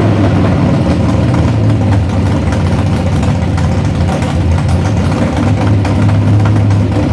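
Hot rod's newly built engine running steadily at idle, loud and even-pitched.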